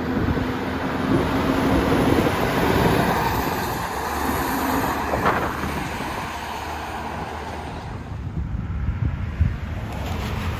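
A heavy truck passing close by, its engine and tyre noise loudest about two to three seconds in, then fading away as it moves off.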